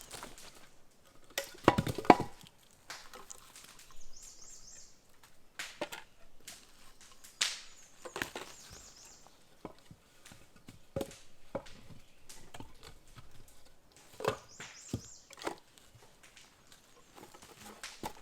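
Scattered knocks and cracks of old wood being handled and broken up, at an uneven pace, the loudest cluster about two seconds in.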